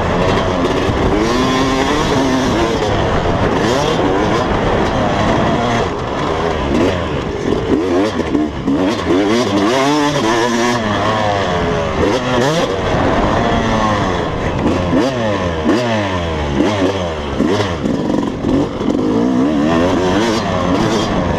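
Several motocross bike engines revving up and down, their pitches rising and falling and overlapping one another.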